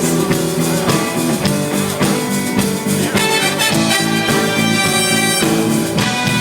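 Live pop-rock band playing an instrumental break between vocal lines, with a horn section playing chords over guitar and drums.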